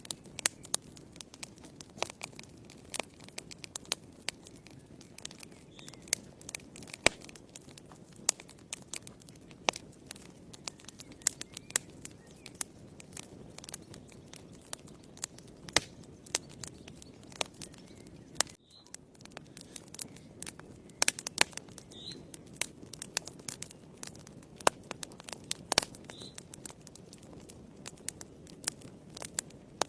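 Wood fire in a fireplace crackling, with irregular sharp pops and snaps over a steady low rush of the flames.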